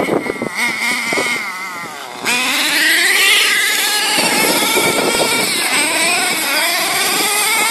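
Nitro engine of an HSP 1/10 monster truck, a .18 big block two-stroke glow engine, running with its pitch rising and falling as the throttle is worked. About two seconds in it gets suddenly louder and revs higher.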